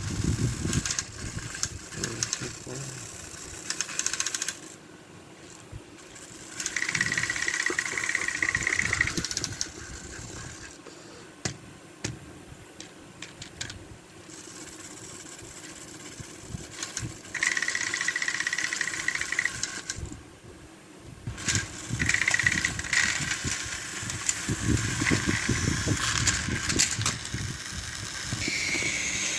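Small electric motors of battery-powered Thomas & Friends toy trains whirring, with a thin whine that comes and goes in stretches of a couple of seconds, over a clattering rattle of plastic wheels, gears and track. It drops to quieter gaps twice.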